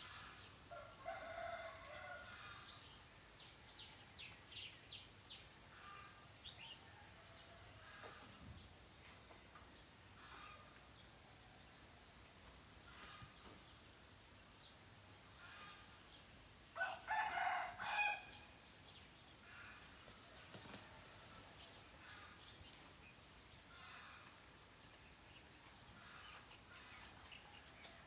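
Insects trilling without a break in a high, rapidly pulsing chirr that pauses briefly a few times, with scattered bird calls. A rooster crows faintly around 17 seconds in.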